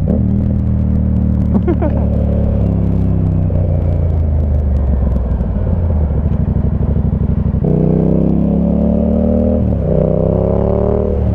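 Yamaha MT-07's parallel-twin engine through an SC Project Conic 2-into-1 exhaust, running steadily under way, then revving up about two-thirds of the way in, with a short dip like a gear change and a second rise near the end.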